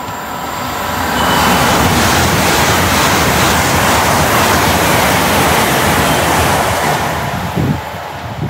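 Great Western Railway Class 80x Intercity Express Train passing at speed: a loud rush of wheel and air noise that builds over the first second or so, holds steady for about six seconds, then fades near the end.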